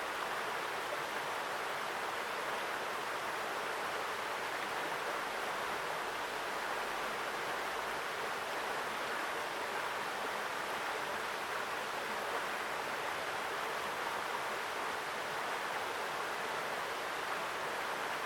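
Mountain stream rushing over rocks, close by: a steady, strong flowing-water sound with no breaks or changes.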